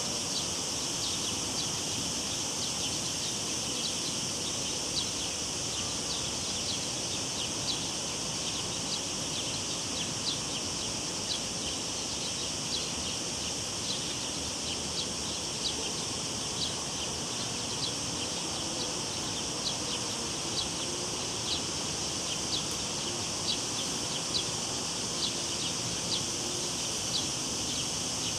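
Cicadas droning steadily, with short high chirps repeating evenly a little more than once a second, over the low, even rush of river water.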